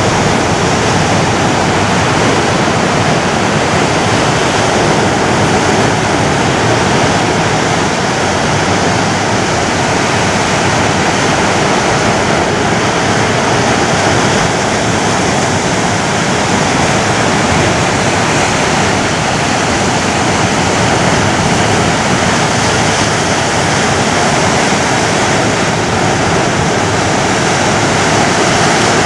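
Ocean surf washing continuously, a steady, even rush of water with no distinct individual waves rising or falling.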